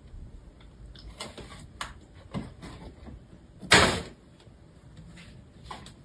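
Scattered light knocks and clicks, with one louder, brief, noisy swish about four seconds in.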